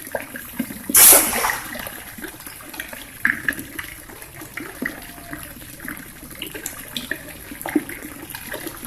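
Water splashing: one sharp splash about a second in, then small scattered splashes and drips.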